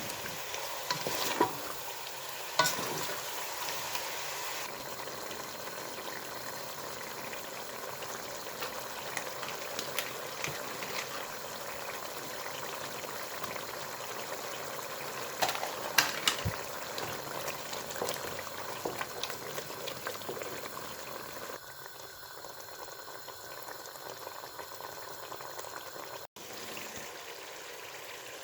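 Food sizzling in a cooking pan, with a few sharp clinks of a stirring utensil against the pan. The sizzle turns quieter about three-quarters of the way through.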